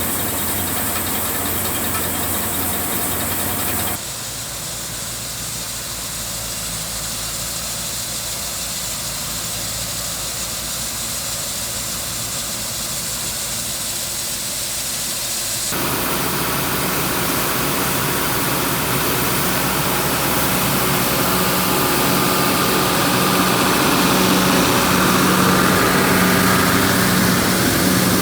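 Engine running steadily, with the sound changing abruptly about four and again about sixteen seconds in; in the last part a low steady hum grows louder.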